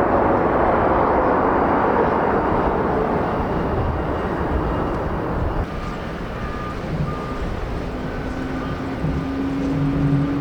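Jet airliner noise. A Boeing 787-8's engines give a loud, even rush that slowly fades as it lands. About six seconds in the sound changes abruptly to a quieter airliner noise, with a steady low hum that rises slightly in pitch toward the end.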